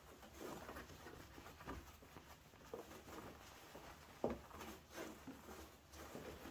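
Faint irregular rubbing and handling of a plastic fender flare being wiped clean with a cloth, with a few light knocks, the sharpest about four seconds in.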